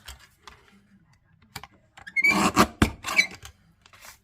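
Cardstock being cut on a mini paper trimmer: a short rasp about two seconds in, ending in a sharp click.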